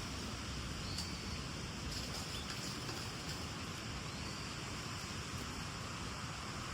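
Steady outdoor hiss of wind and rustling, with a few faint, short, high bird chirps about a second in and again near the middle.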